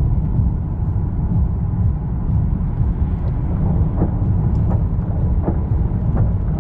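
A loud, steady low rumble with a few faint clicks over it.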